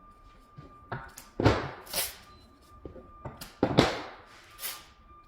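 A series of about six sharp knocks, uneven in spacing, each with a short ringing tail, from work on wooden stair steps.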